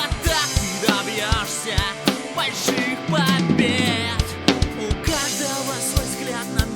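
Rock drum kit playing a steady beat of bass drum and snare along with the band's backing track, under a high wavering melody line and a held low bass note about halfway through.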